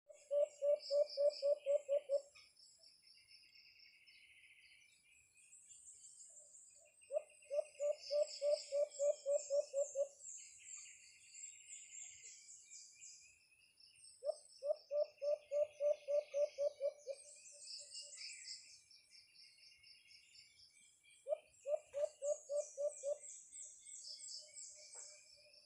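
A bird gives four runs of quick, low hooting notes, about five a second for two to three seconds each, roughly every seven seconds. Smaller birds chirp high and thin throughout, over a faint steady high insect tone.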